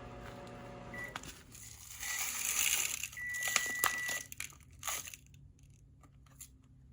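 A plastic food packet crinkling and rustling as its contents are emptied out. A short electronic beep sounds about a second in, and a longer beep sounds in the middle, over the rustling.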